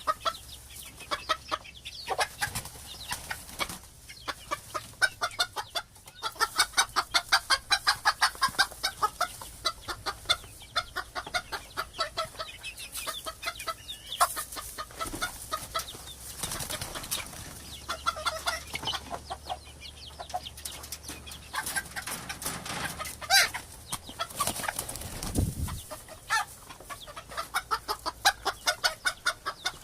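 Chickens clucking: long runs of short clucks, several a second, broken by brief pauses.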